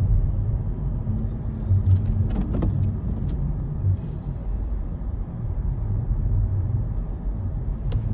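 A car driving slowly, heard from inside the cabin: a low, steady rumble of engine and tyres on an unplowed snowy road.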